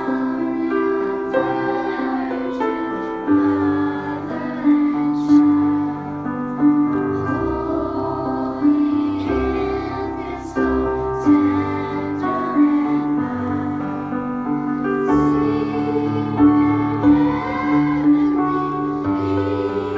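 A choir singing with piano accompaniment.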